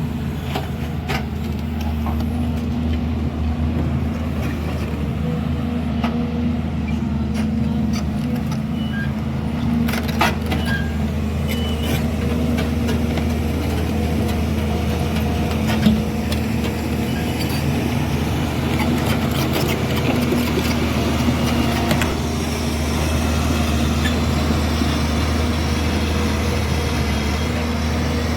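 CASE CX220C excavator's diesel engine running steadily, with scattered short knocks; the loudest comes about sixteen seconds in.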